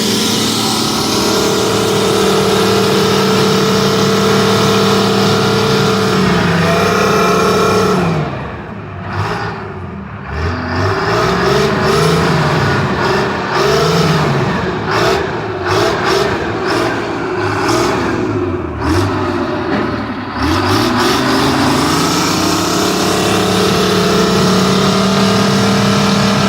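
Engine running steadily, then its pitch swinging up and down for about twelve seconds, as under changing load, before settling back to a steady run.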